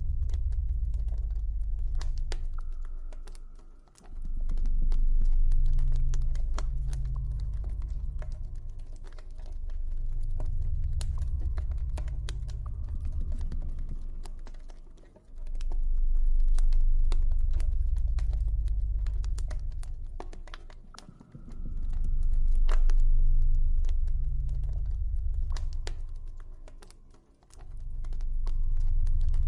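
Campfire crackling, with frequent sharp pops and snaps, over a deep low ambient drone that swells and fades every five or six seconds.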